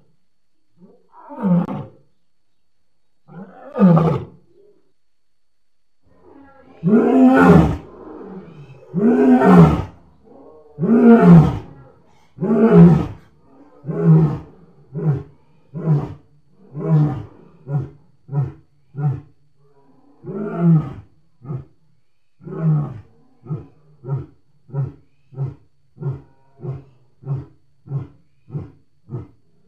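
A lion's roaring bout: a few soft moaning calls, then three or four long, full roars about seven to thirteen seconds in, followed by a long run of short grunts that grow shorter and quicker, about two a second near the end.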